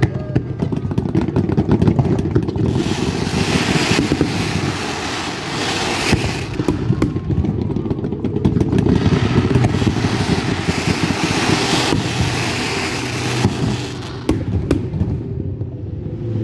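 Fireworks going off: a dense run of crackles and bangs with a low rumble underneath, thinning out about two seconds before the end.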